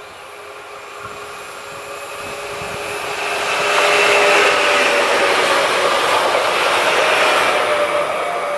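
Pesa Elf electric multiple unit (EN76) passing: the rush of its wheels on the rails builds to its loudest about four seconds in, with steady whining tones over it, and starts to fade near the end.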